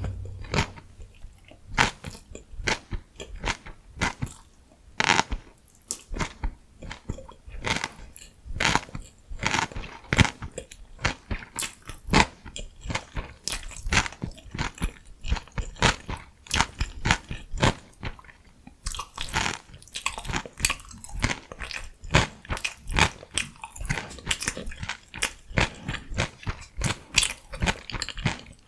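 Close-miked biting and chewing of crunchy vegetable food: a dense, irregular run of crisp crunches with louder individual bites.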